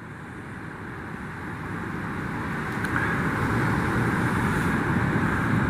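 Outboard motors of a ski-boat launching through the surf, growing louder over the first few seconds and then running steadily.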